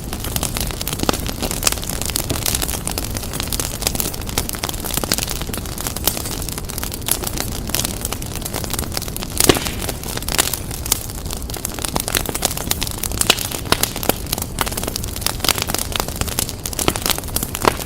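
Wood fire in a fireplace crackling and popping continuously over a low rumble, with one louder pop about halfway through.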